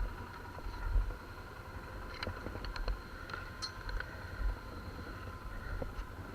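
ATV engine running steadily while riding, with a steady whine over a low rumble and scattered small clicks and rattles.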